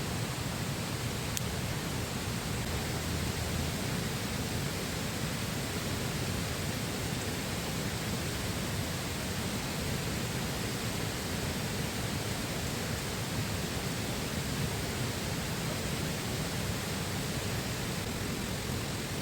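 Steady rushing of a flowing river, an even wash of water noise without a break, with one faint click about a second and a half in.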